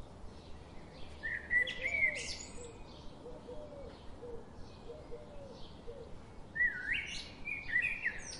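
Birds chirping: a burst of quick chirps about a second in and another near the end, with a lower short call repeated several times in between.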